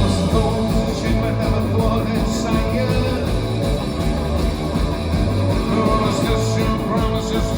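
Rock band playing loudly, electric guitar prominent over bass and drums, with singing.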